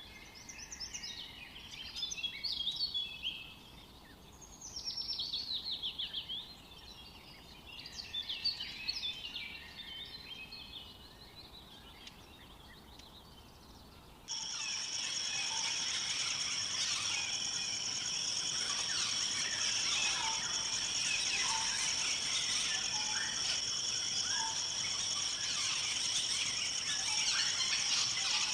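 A songbird singing in short phrases of rapid, high chirping notes, three bursts a couple of seconds apart. About halfway through, an abrupt cut brings in a louder, dense chorus of many birds chirping over a steady high-pitched drone.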